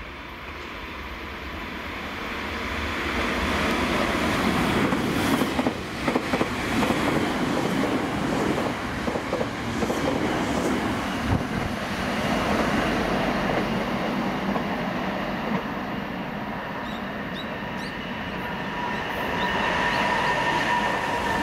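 Nankai electric commuter train passing on the rails: the running noise builds over the first few seconds, with a quick run of wheel clicks over rail joints about five seconds in. A thin, steady wheel squeal comes in near the end.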